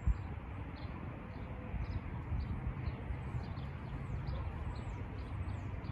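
Small birds chirping, short high chirps several times a second with a few down-slurred calls in the middle, over a low steady outdoor rumble.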